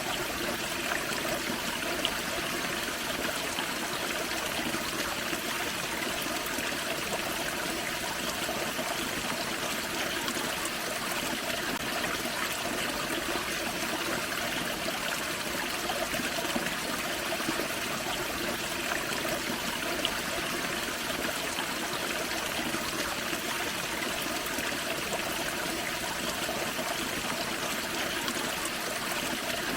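Small waterfall on a forest creek: steady splashing and gurgling of water falling over rocks, even and unbroken.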